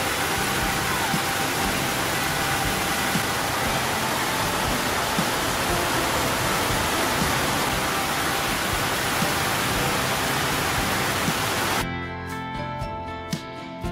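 Heavy rain pouring down, a loud steady hiss. About twelve seconds in it cuts off and gives way to acoustic guitar music.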